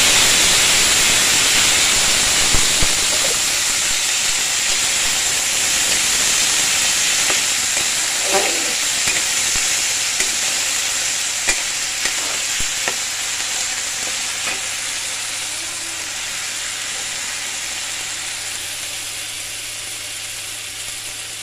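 Chopped potato and green onion stalks sizzling in hot oil in a wok, the sizzle loud at first and slowly dying down. A metal spatula clicks against the pan a few times as they are stirred.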